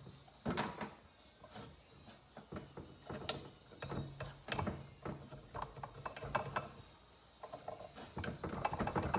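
Irregular metal clicks and clinks of a 1975 Kawasaki F9 350 engine's kickstarter ratchet gear being worked with channel-lock pliers to turn it past its stop.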